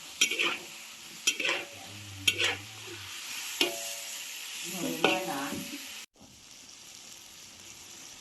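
Pork and wild shiitake mushrooms sizzling in a hot pan while a metal spatula stirs them, with several sharp scrapes and knocks against the pan in the first five seconds. About six seconds in the sound cuts out for a moment, then goes on as a quieter steady sizzle.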